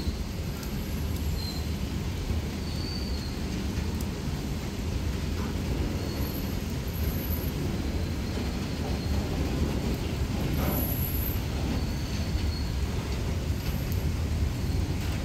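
Freight train rolling past in heavy rain: a steady low rumble of wheels on the track under the hiss of rain.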